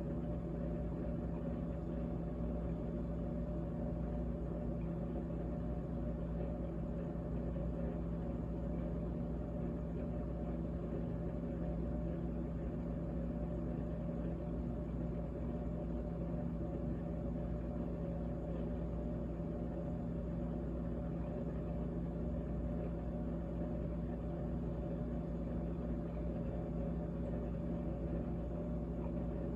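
GE GTH18XCTZRBB refrigerator running with its compressor on: a steady hum made of several even low tones that does not change.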